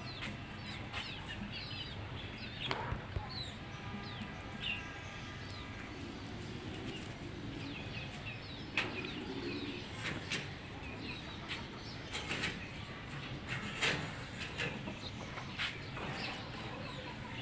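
A group of birds calling: many short chirps throughout, a longer call with several steady tones a few seconds in, and scattered sharp clicks.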